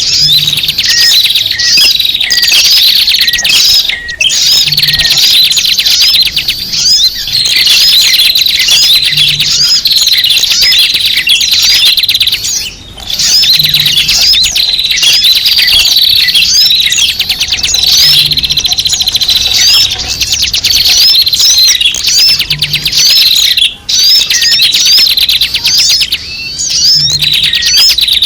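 A noisy crowd of small birds chirping and twittering densely, broken by a few brief pauses: a recorded bird-lure call (suara pikat) for drawing small birds in.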